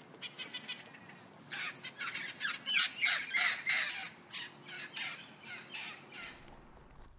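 A bird calling in rapid runs of short, harsh calls, sparse at first, then dense and loudest through the middle before thinning out.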